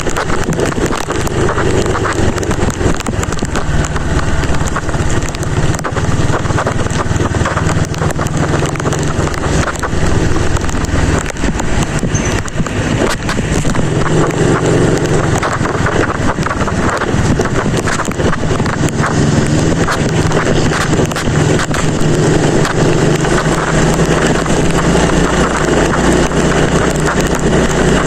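Heavy wind noise buffeting the microphone of a moving motorcycle, with the engine running underneath, riding in rain.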